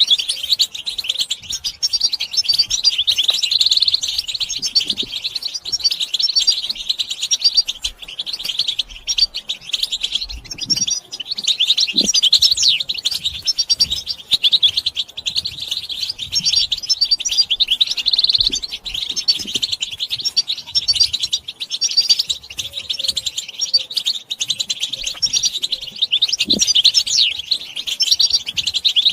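European goldfinches twittering and chattering together in a dense, unbroken chorus of rapid tinkling calls and short song phrases.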